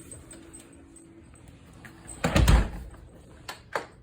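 A door being moved and shut: one loud rumbling scrape a little after two seconds in, followed by two short clicks.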